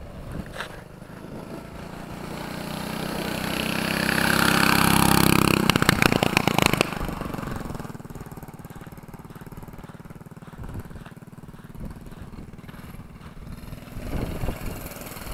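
Minibike engine running under throttle as the bike rides past. It grows louder over about five seconds to a peak, turns rough and crackly as it passes, then drops to a low, steady running as it moves away.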